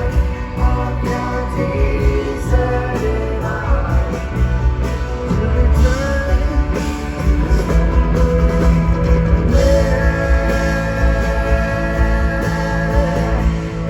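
Rock band playing live: a lead voice singing over guitar, bass and drums, loud and steady.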